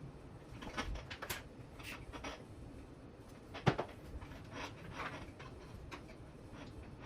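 Hands handling small parts and wiring on a workbench: a string of light clicks and rustles, with one sharper knock about halfway through.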